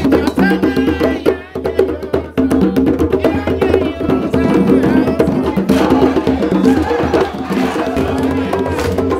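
A group playing African hand drums in a fast, steady rhythm, with a bright wood-block-like percussion part on top and voices singing along at times.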